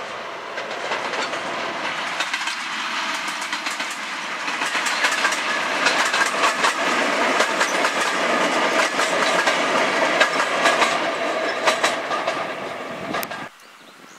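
A train passing: a diesel locomotive hauling coaches, with a dense rattle and clickety-clack of wheels over the rail joints, loudest as the coaches go by. The sound cuts off suddenly near the end.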